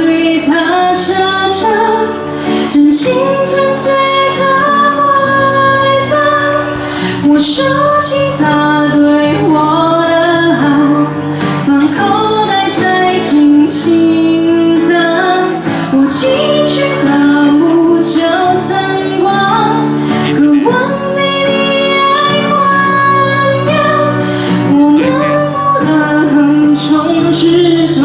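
A woman singing a Mandarin pop song over instrumental backing.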